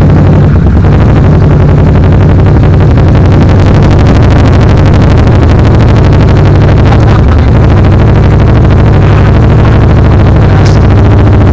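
Kawasaki Versys 650's parallel-twin engine running steadily and loud through an open exhaust pipe with no muffler.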